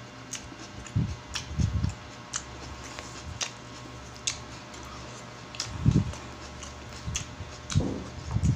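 Close-up chewing and eating: wet mouth clicks and smacks at irregular intervals, with a few low thuds and a bite near the end.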